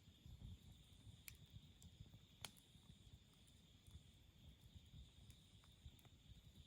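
Wood campfire burning quietly, with scattered faint crackles and two sharper pops, one a little over a second in and a louder one about two and a half seconds in.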